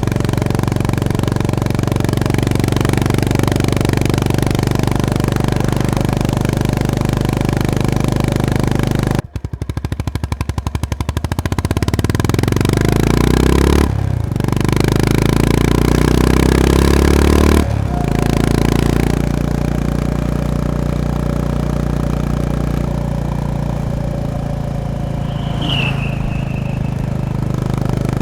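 Honda GB350S / CB350RS air-cooled single-cylinder engine running while riding. It cruises steadily, drops off sharply about a third of the way in with separate firing pulses audible on the closed throttle, then pulls with rising pitch through two gear changes a few seconds apart and settles back to a steady cruise. A brief high falling chirp sounds near the end.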